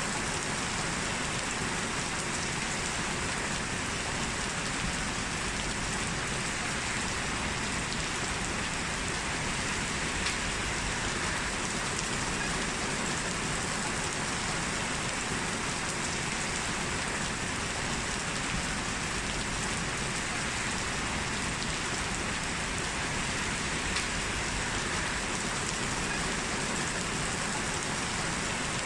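Heavy rain falling steadily, a dense even hiss of drops on a hard surface.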